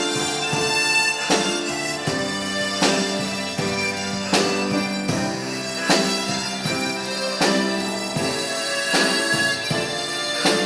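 Harmonica ensemble playing a slow Korean ballad in held, reedy chords, over a steady beat that falls about every three-quarters of a second.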